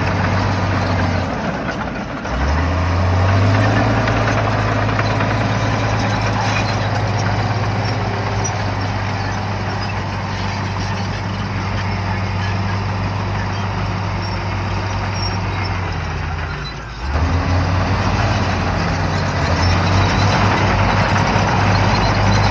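Shantui bulldozer's diesel engine running steadily under work, its low note dipping briefly and shifting pitch about two seconds in and again near seventeen seconds in.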